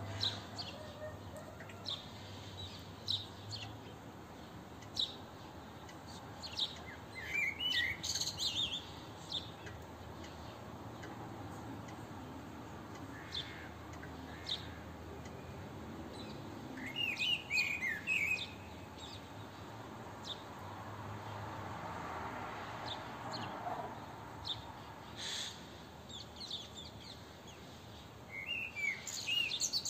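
Wild songbirds chirping and singing: many short high chirps throughout, with a louder warbled phrase repeated about every ten seconds, over a steady background hiss.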